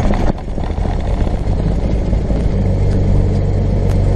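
Cirrus SR22's six-cylinder Continental piston engine firing up with a sudden start, then running steadily at idle with a low, even hum.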